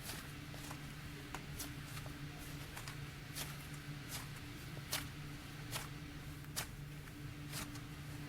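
Hands squishing and kneading slime, with a dozen or so sharp pops and clicks at irregular spacing, the loudest about five seconds in. A steady low hum runs underneath.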